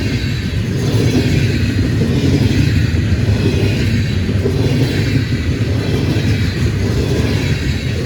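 Freight train rolling past at speed: a steady, loud rumble of wheels on rail with a hiss over it.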